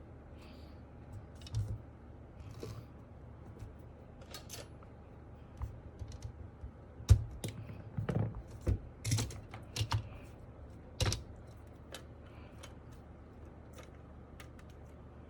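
Irregular plastic clicks and knocks of mechanical keyboard parts being handled, loudest and busiest in the middle, with a sharp knock about seven seconds in.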